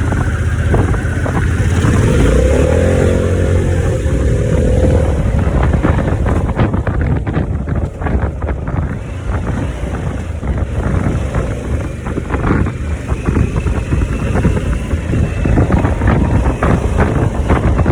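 Harley-Davidson V-twin motorcycle engine running on the road, with wind buffeting the microphone. A pitched whine rises and then fades between about two and five seconds in.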